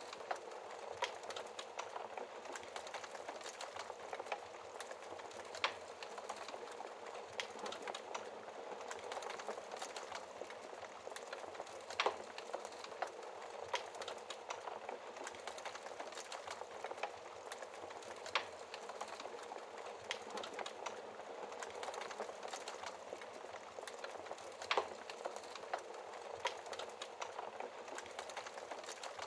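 Wood fire burning in a fireplace: a steady soft hiss full of fine crackling, with four sharper pops spaced about six seconds apart.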